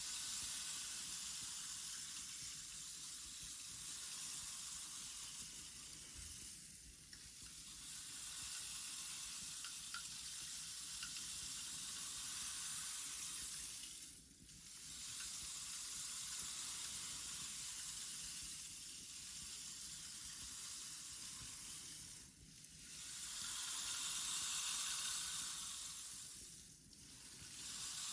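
Loose grains shifting and pouring in long, steady hissing swells, with short breaks about every four to eight seconds as the flow stops and starts again.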